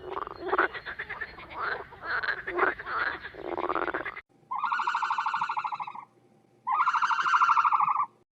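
A frog gives two long, evenly pulsed croaking trills, each about a second and a half long, a little apart in the second half. Before them, for about four seconds, there is a run of short, wavering animal calls from a different clip.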